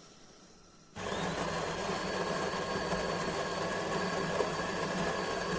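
Built-in coffee bean grinder of a De'Longhi Dinamica Plus espresso machine starting up suddenly about a second in and grinding steadily, a whirring hum with a faint high whine.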